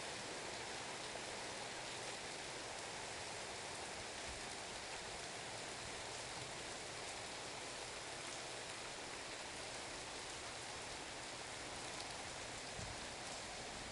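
Steady rain falling in a downpour: an even, unbroken hiss of drops with a few faint individual taps.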